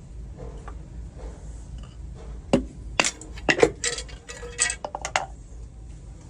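A series of sharp metallic clinks and knocks, about half a dozen bunched together starting about two and a half seconds in, as metal parts of a six-cylinder diesel engine are struck or set against each other during a cylinder sleeve replacement.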